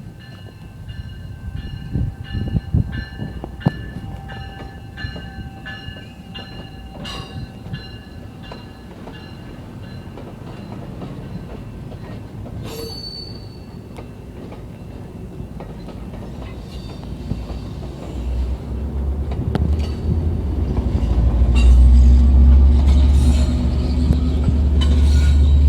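Commuter train on the tracks. First come high thin squealing tones and scattered clicks. From about two-thirds of the way in, a heavy low locomotive rumble builds and grows loud as the train draws close.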